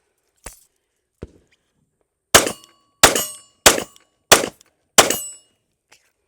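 Five 9mm pistol shots from an IWI Masada Slim, fired evenly about two-thirds of a second apart, each with a short ring after it, preceded by a couple of faint handling clicks.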